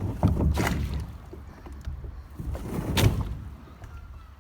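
Water rushing and splashing around a kayak, swelling loudly twice, about two and a half seconds apart, then easing off.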